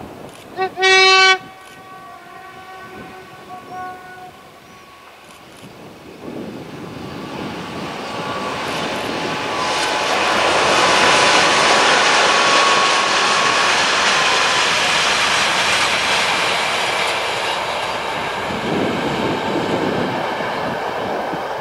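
A diesel freight train's horn gives a short toot and then a longer blast about a second in. Then the train approaches and passes, its engine and wheels on the rails getting loud around the middle and fading toward the end.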